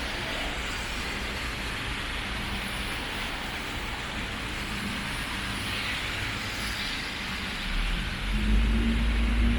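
Steady hiss of rain. From about eight seconds in, a motor vehicle's engine rumbles close by, louder, with a steady low hum.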